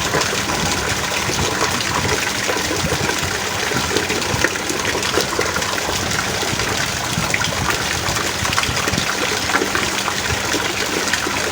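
Heavy rain pouring steadily, a dense hiss with many individual drops ticking through it.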